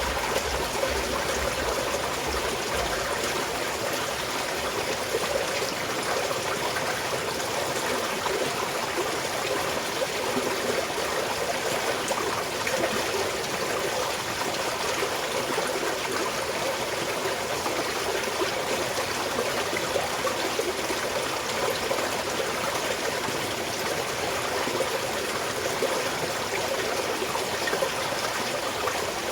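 Small mountain stream flowing and trickling steadily over rocks, a continuous watery rush with faint splashes.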